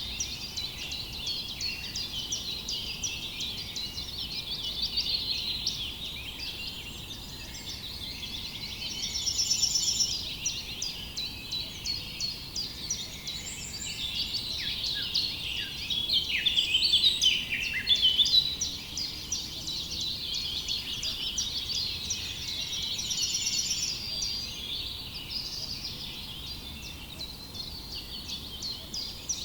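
Many small birds chirping and singing at once, a continuous overlapping chorus of short high chirps and trills, with louder bursts of song about a third of the way in and again a little past the middle.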